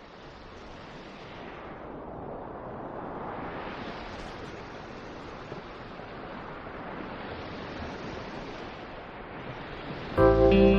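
Wind blowing in gusts, a steady rush that swells and eases every few seconds and grows louder overall. Guitar music comes in suddenly near the end.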